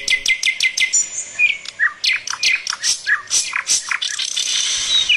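Birds chirping: a quick, even run of short chirps, about five a second, for the first second, then a mix of short calls and downward-slurred notes.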